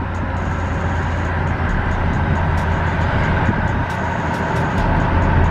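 Car engine and road noise while cruising: a steady low drone under a wash of tyre and wind noise, getting slightly louder near the end.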